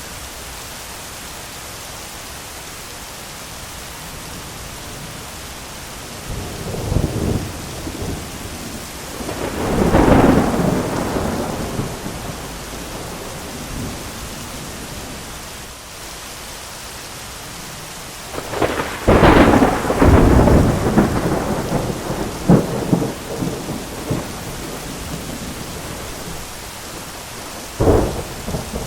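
Steady heavy rain with rolling thunder: a rumble builds about seven seconds in and peaks around ten seconds, a louder crackling peal comes just after the middle, and a short sharp crack near the end.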